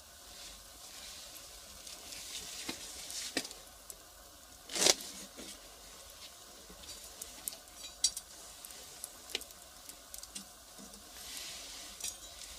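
Firewood fire crackling, with a soft hiss under scattered sharp pops and snaps; the loudest snap comes about five seconds in.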